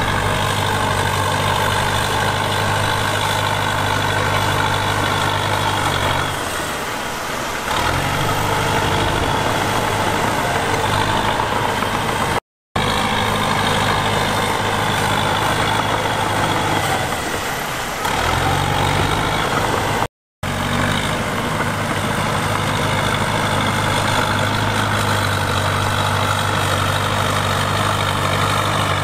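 Heavy diesel engine of earthmoving machinery running steadily. Its note sags and picks back up twice, and the sound cuts out completely for a split second twice.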